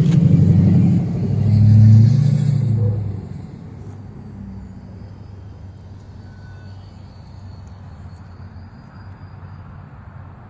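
Small electric RC airplane motor and propeller humming as the plane passes close, peaking and dropping in pitch about two seconds in, then fading to a faint distant hum after about three seconds.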